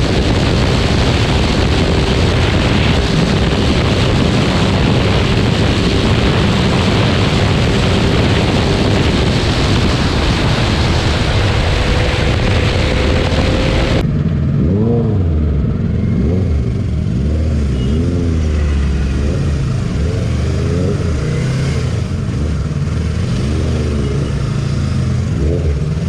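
Motorcycle riding at speed, with heavy wind rush over the microphone. About halfway through the sound changes abruptly to the engine note, revving up and falling back again and again, as when riding through slowing traffic.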